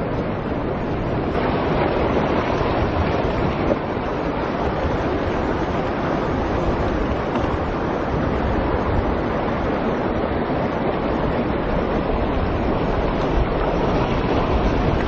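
Steady rush of sea surf on the shore, with wind rumbling on the microphone.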